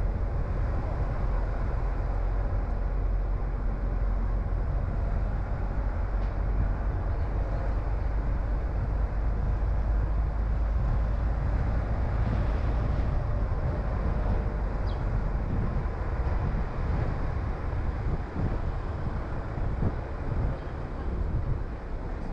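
Steady low rumble of a car being driven, engine and tyres on the road, which wavers and dips a little near the end.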